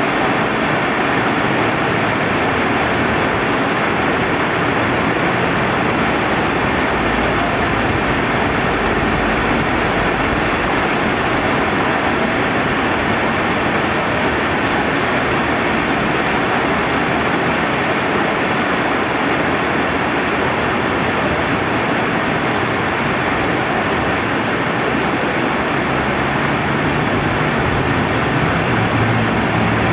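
Steady rain falling beside a rushing river: a constant, even hiss with no breaks.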